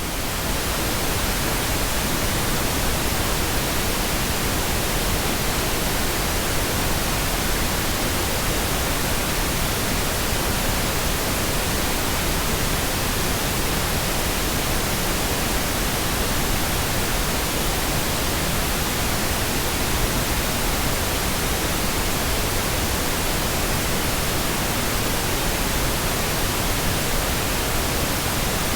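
Generated pink noise: an even, unbroken hiss spread across all frequencies, rising over about the first second and then holding a steady level.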